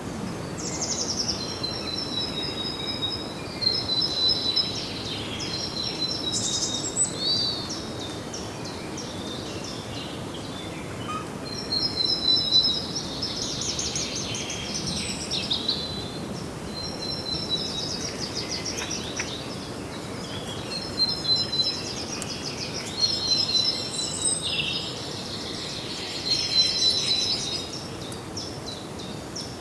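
Several songbirds singing: repeated high phrases of chirps and trills every couple of seconds over a steady background hiss.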